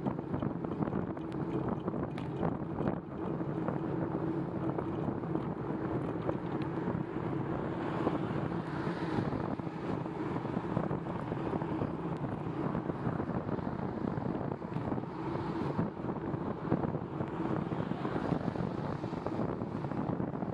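Steady wind rush on the microphone of a moving bicycle, with the tyres running on wet pavement.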